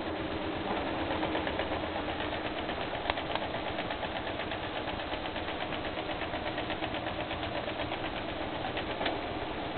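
Bipolar stepper motor from an old scanner, driven from a signal generator through a driver board, running continuously with a steady hum and a fast, even ticking. A couple of sharper clicks come about three seconds in and again near the end.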